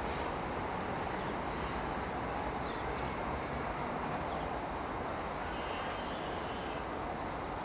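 Steady rumble of a distant electric commuter train running across a viaduct.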